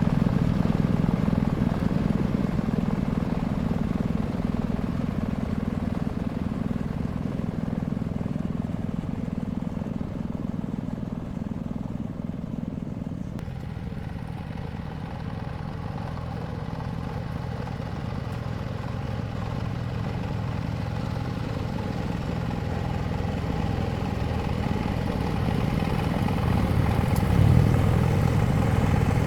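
Engine of a farm tractor-truck running steadily, with a change in its sound about halfway through.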